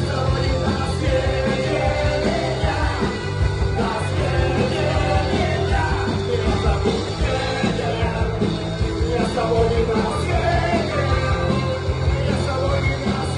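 Rock band playing a song with a singer's voice over a steady beat.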